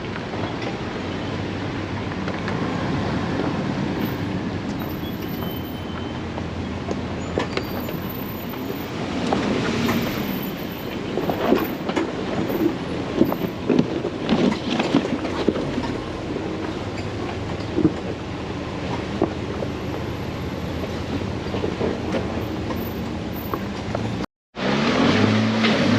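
Jeep driving slowly over a rocky off-road trail: a low, steady engine note with irregular clicks, knocks and rattles from the tires and body over rough ground. The sound cuts out briefly near the end and comes back louder.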